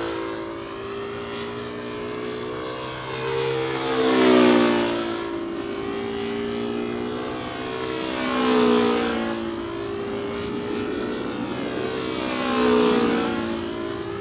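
Small model-aircraft engine of a control-line model flying laps, its buzz rising and falling in pitch and swelling in loudness three times, about once every four seconds, as the plane circles past.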